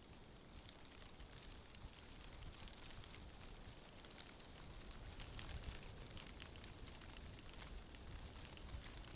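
Faint ambient wind: a low rumble under a steady hiss dotted with many small crackles, getting a little louder about halfway through.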